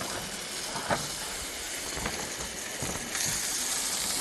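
Steady hiss of food frying on a camp burner stove, growing louder about three seconds in, with a couple of faint knocks.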